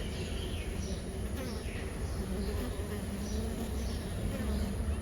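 Asian honey bees (Apis cerana) humming at the hive entrance, a steady buzz whose pitch wavers as individual bees fly in and out. A few short, faint high chirps sound over it.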